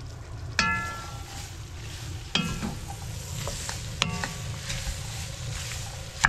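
Chopped vegetables sizzling as they cook down in a roux, stirred with a spoon that knocks against the pot a few times, each knock ringing briefly.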